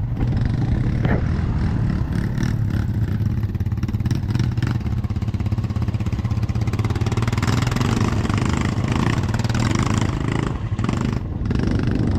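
ATV engine running steadily, with a low drone and a spate of rattling knocks over the first few seconds.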